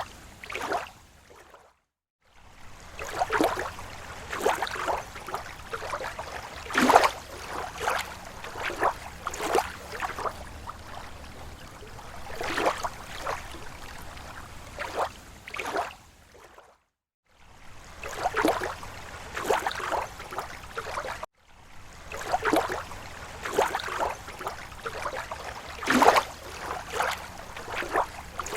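Small, slow waves lapping at a lake shore: irregular splashes and slaps of water, broken by a few short spells of silence.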